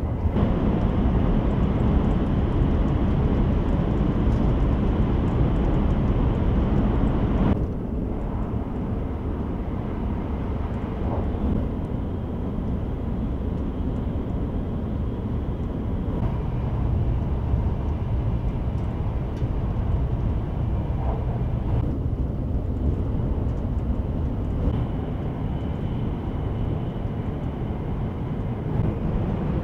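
E5 series Shinkansen running at speed, heard inside the passenger cabin: a steady low rumble and rush of running noise. It is louder for the first seven seconds or so, then drops suddenly to a slightly lower, steady level.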